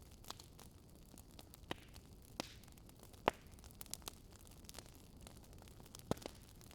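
Fire crackling in a fireplace: scattered sharp pops over a faint steady hiss, the loudest about three seconds in.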